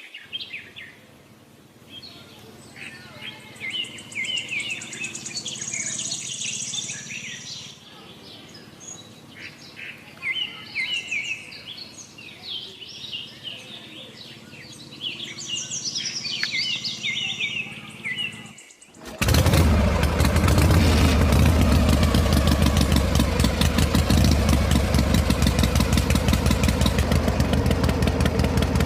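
Small birds chirping over a quiet background, then about two-thirds of the way through a small homemade toy diesel engine comes in suddenly and runs steadily with a fast, even beat.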